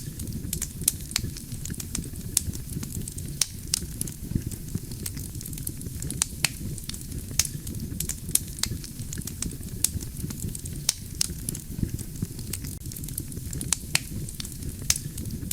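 Wood campfire burning: a steady low rumble of flames with frequent sharp crackles and pops of burning logs, several a second at irregular intervals.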